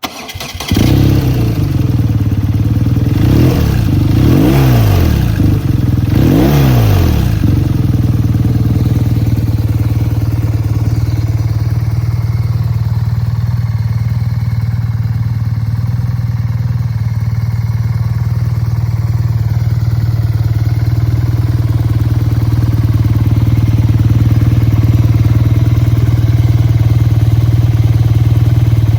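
BMW R 12 G/S motorcycle's boxer-twin engine starting, then revved twice with the throttle, each rev rising and falling back, before settling into a steady idle.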